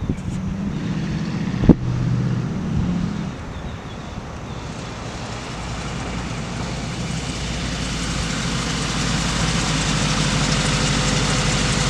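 Car with a 350 V8 running, with one sharp click a little under two seconds in; the engine sound then grows steadily louder.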